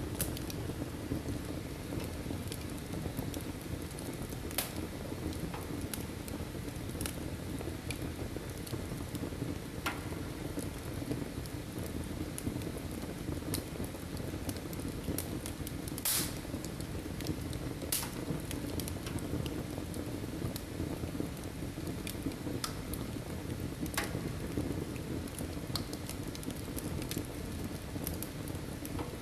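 Wood fire burning in a fireplace: a steady low rush of flames with scattered sharp crackles and pops, the loudest about 16 seconds in.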